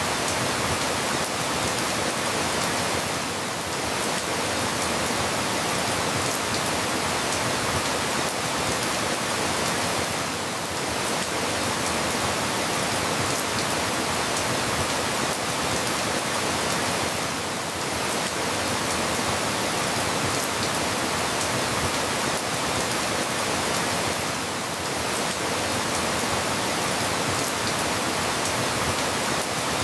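Steady heavy rain falling, a dense even hiss with a slight dip in level about every seven seconds.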